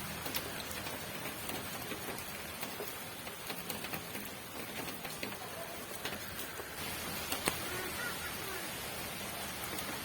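Steady rain falling, an even hiss with scattered sharper drop hits, one standing out about seven and a half seconds in.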